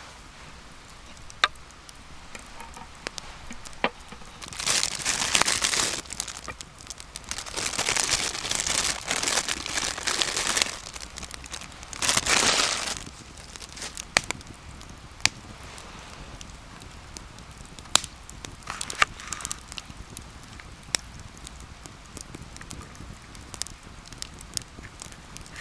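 Wood campfire crackling, with sharp pops scattered throughout. Three stretches of louder rustling and crinkling come a few seconds in, around the middle and just after it.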